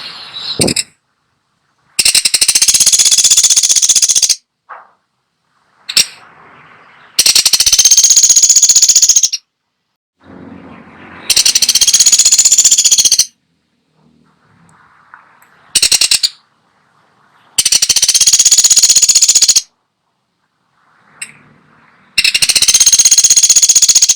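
Woodpecker giving loud, rapid rattling trills of about two seconds each, one every four to five seconds, with one short rattle in the middle.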